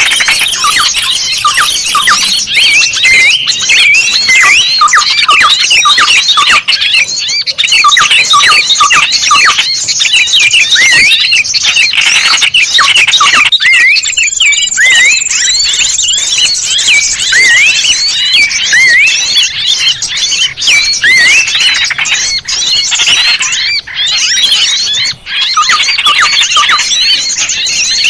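A dense chorus of many small birds chirping and squeaking over one another in rapid, overlapping high calls, with a thin high whistle held for about two seconds midway; a bird-lure recording used to draw small birds in.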